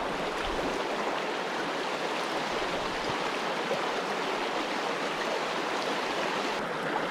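Limestone creek water running, a steady rushing noise with no change in level.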